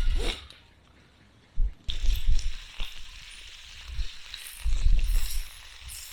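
Food sizzling on a grill over a small charcoal fire pit: a hiss with crackles that sets in about two seconds in, broken by several low thumps.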